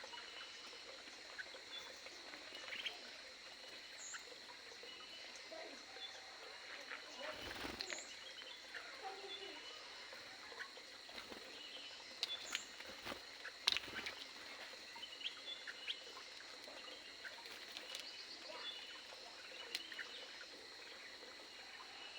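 Many small birds in an aviary chirping with short, scattered calls, over a steady high-pitched tone, with a few sharp clicks near the middle.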